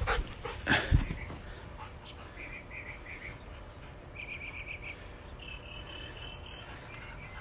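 Dogs stirring briefly about a second in, then a small bird chirping in short, quick series of high notes in the background.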